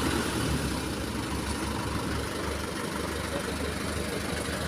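Diesel truck engine idling steadily, heard from beside the truck.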